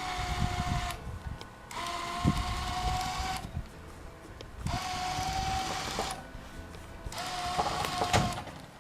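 Electric truck-mounted winch reeling in a tow strap under heavy load in about four short runs, each a steady whine that rises slightly in pitch as it starts, with brief pauses between. The winch is straining to pull a heavy palm trunk upright, hard enough to drag the truck.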